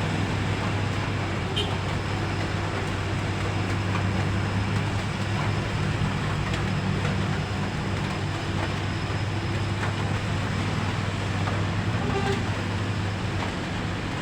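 Heavy truck's diesel engine running steadily, a low even drone, with a constant hiss of road and traffic noise over it.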